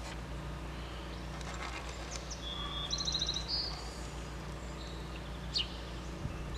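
Outdoor ambience: a steady low rumble with a small bird chirping, a quick run of high repeated notes about three seconds in and a single short chirp near the end.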